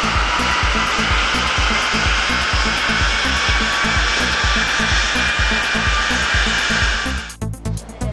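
Audi Q3 2.0 TDI diesel on a rolling-road dyno during a full-load power run: a loud, steady rushing noise with a faint whine slowly rising in pitch, cutting off suddenly about seven seconds in as the run ends. Background music with a steady beat plays throughout.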